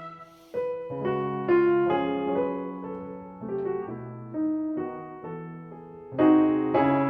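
Slow background piano music: single notes and chords struck and left to ring and fade, with a louder chord about six seconds in.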